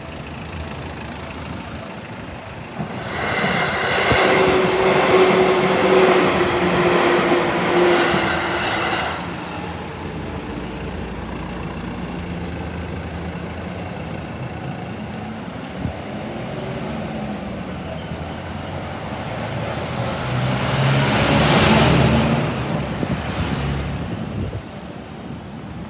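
Seibu Kokubunji Line electric trains passing over a level crossing. The first passes about three seconds in and runs loud for about six seconds with a slowly falling whine. A second swells up around twenty seconds in and fades again near the end.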